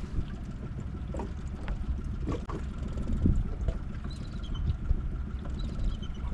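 Wind rumbling on the microphone and water moving around a drifting skiff, with a few light knocks.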